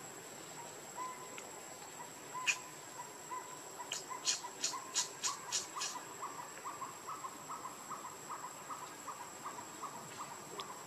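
A bird repeating a short note about three times a second, growing louder partway through, over a steady high insect drone. A quick run of about seven sharp clicks comes around four to six seconds in.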